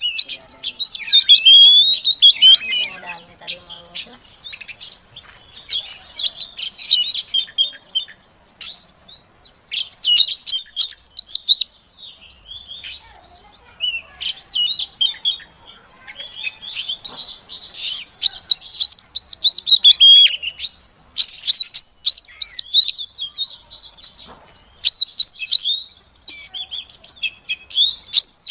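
Female oriental magpie-robin calling: a dense, fast run of varied chirps and twitters, with a few brief lulls.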